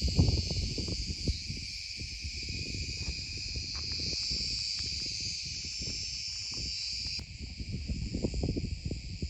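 Steady, dense chorus of insects buzzing and shrilling, part of which cuts off suddenly a little after seven seconds in, over an uneven low rumble on the microphone.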